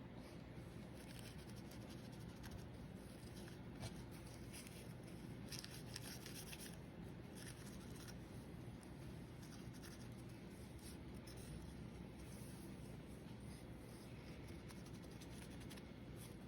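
Faint, irregular scratching and rubbing of a small paintbrush working a wash over an N scale model locomotive, over a low steady room hum.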